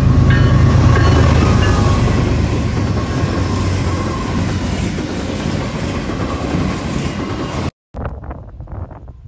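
Norfolk Southern freight train passing close at speed: the diesel locomotives' heavy engine rumble is loudest at first, then gives way to the steady rolling noise of the train. Just before the end it cuts off suddenly, and wind buffets the microphone.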